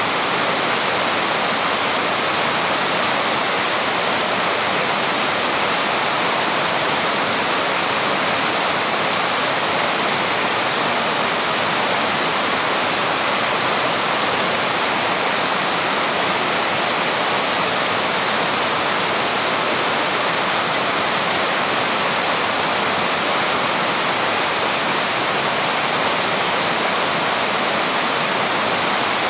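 Waterfall: falling water rushing, a steady, even roar.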